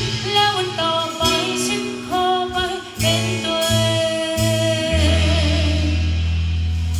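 A band playing a song with a singer's voice over keyboard and bass; about five seconds in the song settles on one long held chord that slowly fades.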